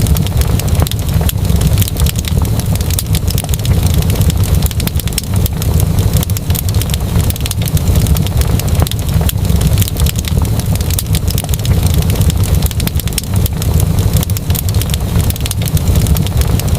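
Wood fire burning, with a steady low rumble of flames under frequent sharp crackles and pops.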